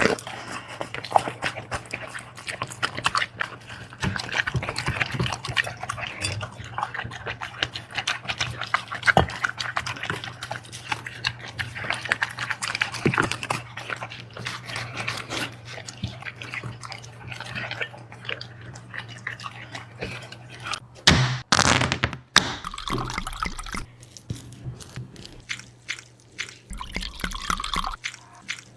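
A dog eating wet food, with steady wet chewing, smacking and lapping made up of many small clicks. A brief louder burst comes about three-quarters of the way in.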